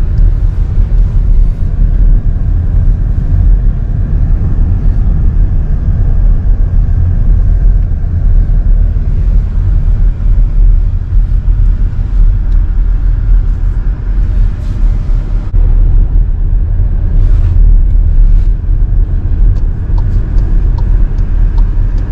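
Loud, steady low rumble that wavers in level, with faint ticks above it.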